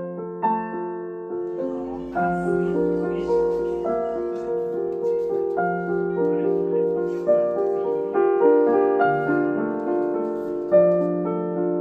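Background piano music: a gentle tune of struck notes and chords, each note dying away.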